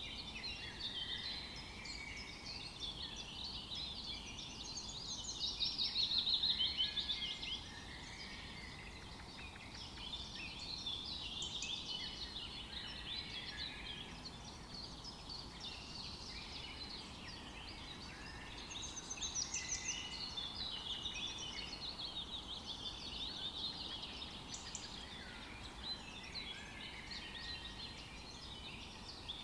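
Forest dawn-chorus ambience: many songbirds chirping and trilling together, overlapping without pause over a soft background hiss, with a louder, faster trill about six seconds in.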